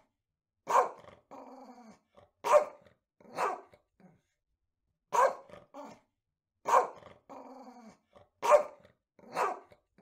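A dog barking in short, sharp single barks, about seven in all, with silent gaps between them. The same run of barks comes twice.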